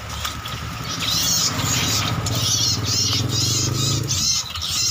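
Small songbird calling over and over, short high chirps about twice a second starting about a second in, over a steady low hum.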